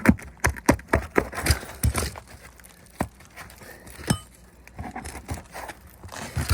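Asphalt roof shingles being pried and worked loose from their nails: irregular scraping, crinkling and sharp knocks of the shingle and tool against the roof, busiest in the first two seconds and again near the end.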